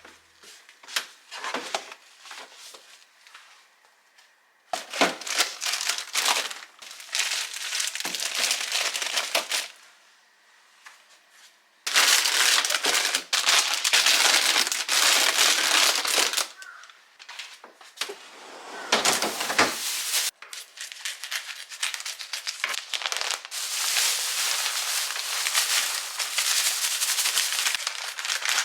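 Plastic bags or wrap crinkling and rustling in repeated bursts as packs of portioned meat are handled for freezing, with quieter pauses between bursts.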